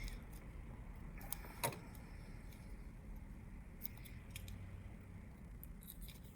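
A few small, sharp clicks and taps from handling a phone and small repair tools on a work surface, the clearest about a second and a half in, over a low steady hum of room tone.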